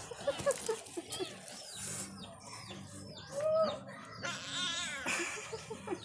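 Small birds chirping in quick, scattered calls, with a single lower arched call about three and a half seconds in.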